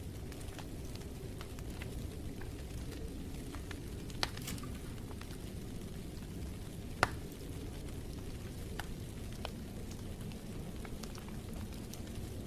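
Wood fire in a fireplace crackling over a steady low rumble, with two sharper pops about four and seven seconds in.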